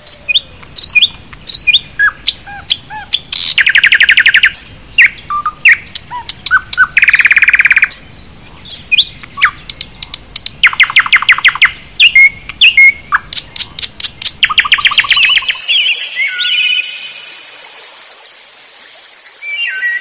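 Songbirds chirping and singing: short whistled chirps and glides, broken every few seconds by fast rattling trills.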